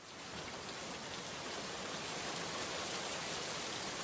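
Steady rain falling, fading in at the start and then holding at an even level.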